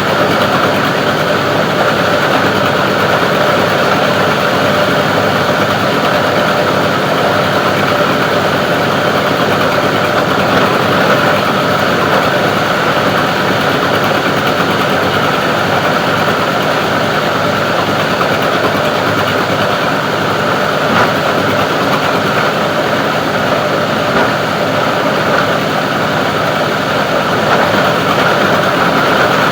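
Plastic recycling grinder machine running steadily with a loud, continuous mechanical noise and occasional faint clicks.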